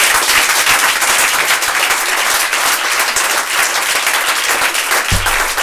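Small audience applauding and clapping after a song, slowly tapering off; a low tone sounds briefly near the end.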